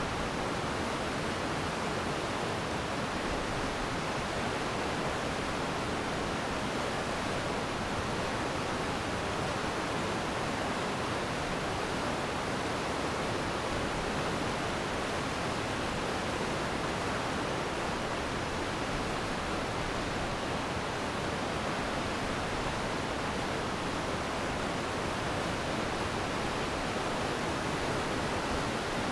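Glacial meltwater stream rushing steadily, a dense even roar of water.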